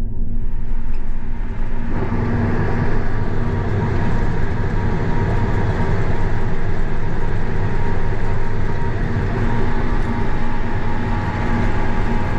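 Large farm tractor's diesel engine running steadily at road speed, a constant drone with an even pitch.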